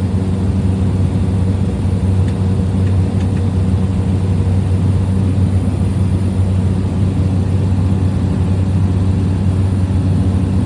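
Small plane's engine and propeller running steadily in cruise flight, heard inside the cabin as an even, unchanging drone.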